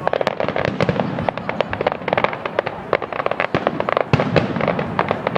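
Fireworks display: a dense, irregular volley of crackling and popping bursts, many sharp cracks a second with occasional louder bangs.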